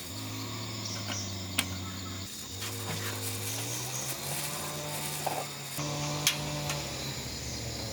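Crickets chirring over a low, sustained droning tone that steps up in pitch every second or two, with a few sharp clicks.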